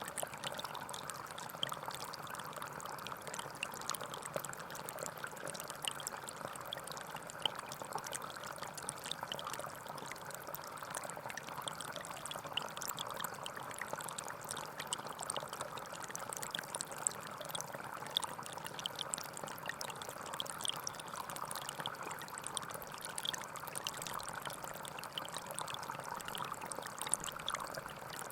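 Gentle forest stream flowing: a steady babble of water with many small splashes and trickles.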